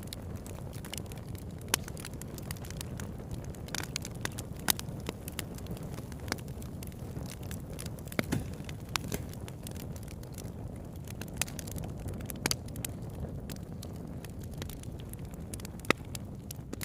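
Wood campfire burning: a steady low rush of flames with irregular sharp crackles and pops, a few of them much louder than the rest.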